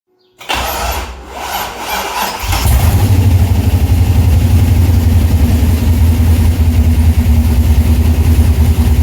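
2005 Corvette C6's swapped junkyard LS V8, run by a Holley Terminator X, being cranked and catching about two and a half seconds in. It then settles into a loud, steady run.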